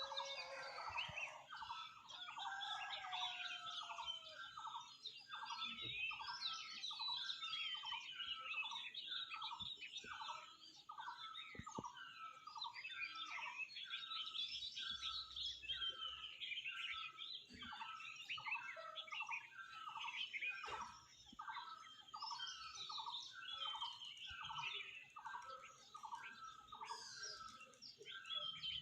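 Morning bird chorus: one bird repeats a short hooked call at an even pace, somewhat more than once a second, over a busy background of higher chirps and twitters from other birds.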